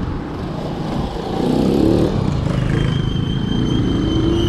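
Road noise during a bicycle ride: steady wind rumble on the microphone, with a motor vehicle engine passing and its pitch rising and falling. A thin steady high whine joins about three seconds in.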